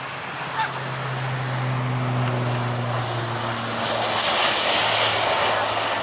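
Propeller aircraft passing, a steady low propeller drone with a couple of higher tones over it, and the rush of its engines building to a peak about four to five seconds in.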